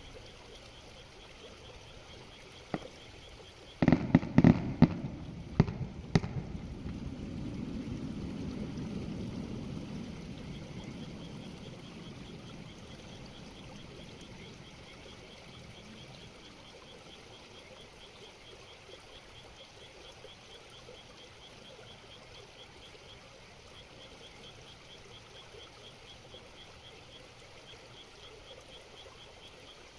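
Aerial fireworks shells bursting: a single crack, then a quick volley of about eight sharp bangs about four seconds in, followed by a rolling echo that swells and fades over several seconds. A faint, regular high chirping continues underneath.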